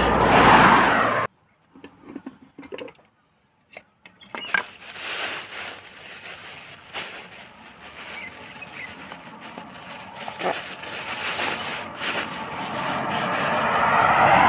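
A vehicle passing on a nearby road, swelling and fading right at the start and cutting off abruptly. Then small clicks and knocks over steady outdoor noise, and a second vehicle approaching loudly near the end.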